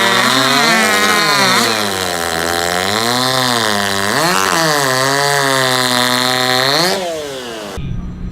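High-revving racing chainsaws cutting through a log at full throttle. The engine pitch sags as the chains bog down in the wood and climbs back between cuts, several times over. The sound cuts off abruptly near the end.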